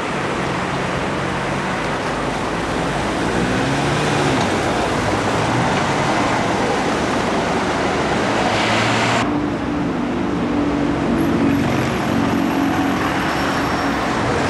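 Busy street traffic with vehicle engines running and passing. The sound changes abruptly about nine seconds in, where the high hiss drops away.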